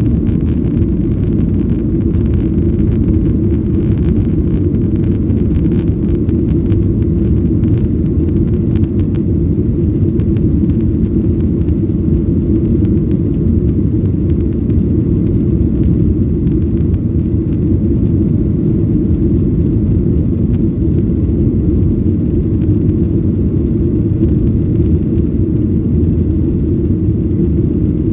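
Cabin noise of a Boeing 737-800 heard from a rear window seat: a steady, loud low rumble of its CFM56 jet engines and airflow, unchanging throughout.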